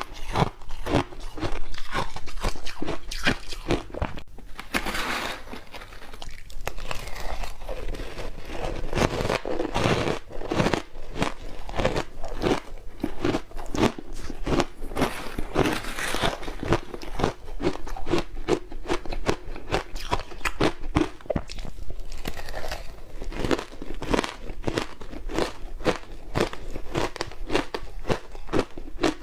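Ice coated in matcha powder being bitten and chewed close to the microphone: rapid, dense crunching, several crunches a second.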